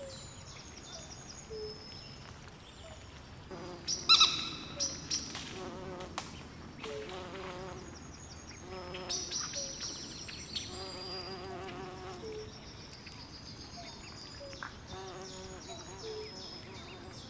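Night swamp chorus: overlapping frog trills and chirps with high, thin insect and bird-like calls, in repeated bursts. A sharper, louder call stands out about four seconds in.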